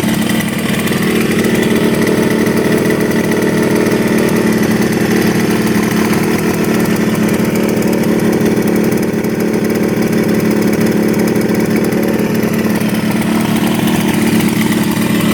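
1975 Yamaha RD200's two-stroke parallel-twin engine idling steadily, running on both cylinders.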